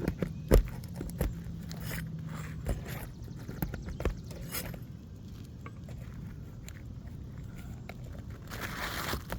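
Old, delaminating laminate asphalt shingles being pried and scraped with hand tools during shingle removal: scattered knocks and crunching, rasping scrapes, with a sharp knock about half a second in and a longer scrape near the end.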